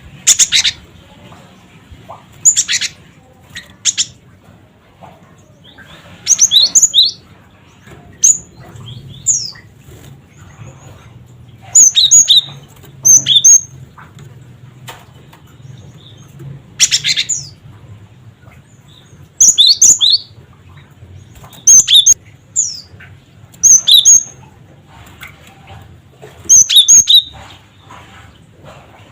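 Cinereous tit singing: short groups of sharp, high-pitched notes repeated every two to three seconds, some notes sliding downward.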